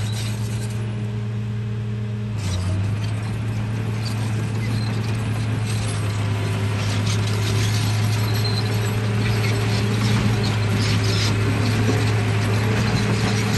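RC bulldozer's drive motors and gearboxes running with a steady low hum under a ratcheting, clicking rattle of gears and tracks. The rattle gets busier after a few seconds.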